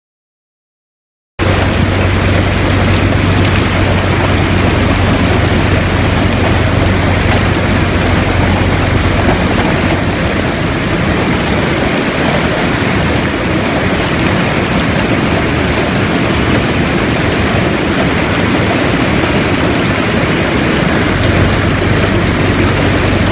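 Loud, steady rushing of a river swollen by heavy rain, starting abruptly about a second in, with a low steady hum underneath that fades out midway and returns near the end.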